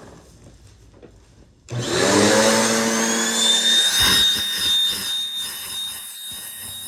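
Bissell PowerForce vacuum cleaner switched on about two seconds in, its motor spinning up with a rising whine and then running steadily, powering the turbo brush attachment.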